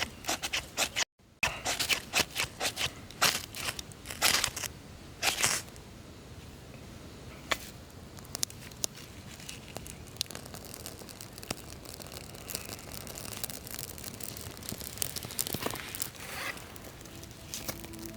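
Rustling and crinkling handling noises: a dense run of short sharp crackles and clicks that thins out after about six seconds into occasional clicks.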